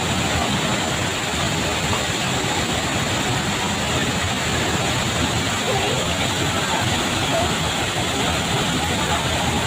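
Steady rush of a waterfall, with faint voices of people in the background.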